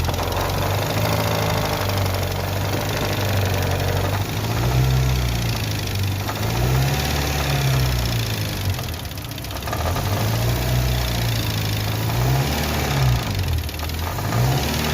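Car engine running and being revved up and let back down about five times, with a mechanical knocking noise that the mechanic suspects comes from a worn air-conditioning compressor driven by the engine's belt.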